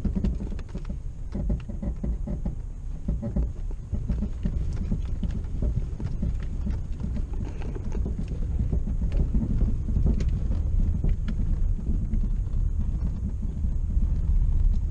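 Vehicle driving over a rough unpaved road: a steady low rumble with many small rattles and knocks from the bumps.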